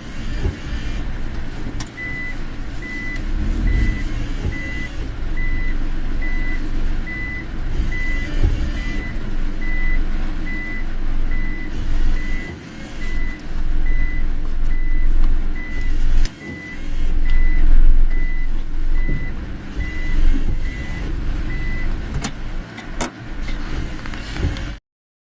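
Inside a moving car in heavy rain: a steady rumble of engine, tyres and rain, with a high electronic beep repeating about twice a second from about two seconds in until near the end. The beep is like a car's reversing warning. Two sharp clicks come near the end, then the sound cuts off.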